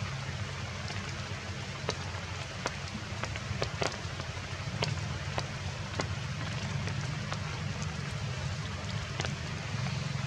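Heavy rain falling steadily, with scattered sharp drops and taps standing out.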